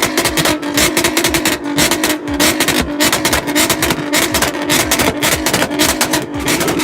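Car engine held on a two-step launch limiter, with a steady tone under dense, rapid crackling pops from the exhaust.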